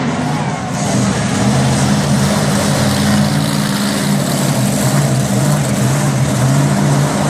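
Monster truck engine running loudly and steadily, with a dense rushing noise over it.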